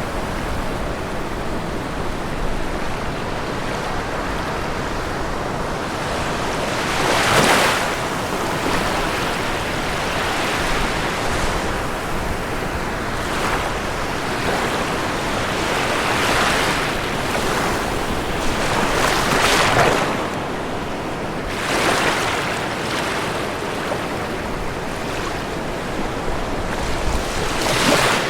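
Ocean waves breaking on a shore: a steady wash of surf with a louder wave cresting every few seconds, the strongest about a quarter of the way in.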